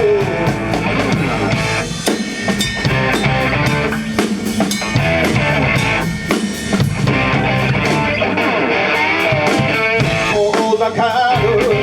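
Rock band playing an instrumental passage between sung lines: drum kit with bass drum and rimshots under electric guitar and bass.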